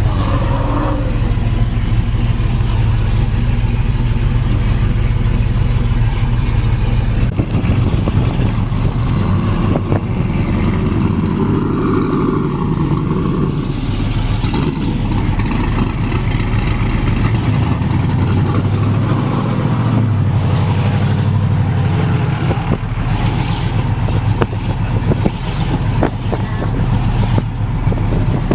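A truck engine running loudly, its revs climbing and falling off several times. The low drone changes about seven seconds in.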